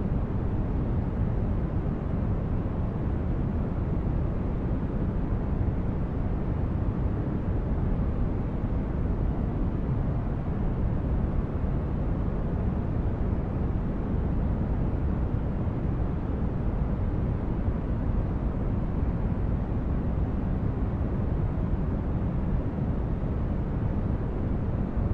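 Steady, unbroken white-noise track, deep in tone: strongest in the low range and thinning out toward the highs, with no changes or events.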